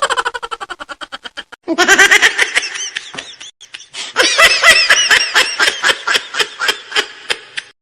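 Laughter sound effect: a quick fading giggle, then two bursts of high-pitched laughter with a short pause between them, the second longer and ending abruptly.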